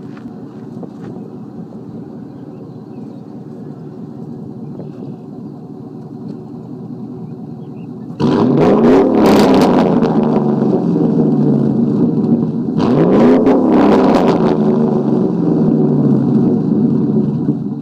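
2008 Chevy Silverado engine breathing through headers and a muffler-delete exhaust with a Y-pipe, idling, then blipped twice to a loud rev. The revs come about eight and thirteen seconds in, each climbing quickly and falling back gradually toward idle.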